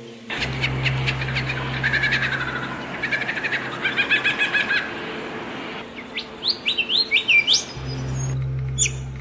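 Songbirds chirping: a fast trill of rapidly repeated notes over a hissy background, then a quick run of about six rising whistled notes.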